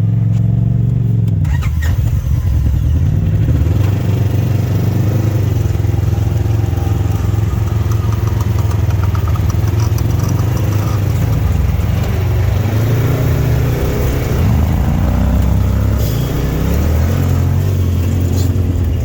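Polaris side-by-side's engine running on an off-road trail, its pitch rising and falling with the throttle.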